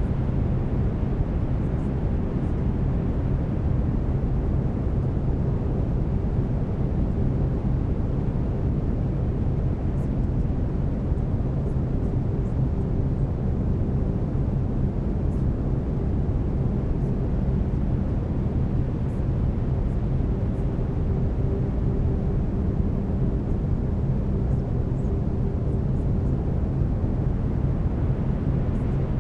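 Steady brown noise, a deep even rumble-hiss, with low steady tones of binaural beats held underneath; a faint higher tone drops out for a few seconds midway and returns.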